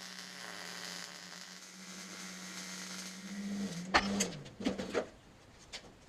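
A small electric motor hums steadily, then winds down with a falling pitch about four seconds in, followed by a few sharp metallic clicks and knocks.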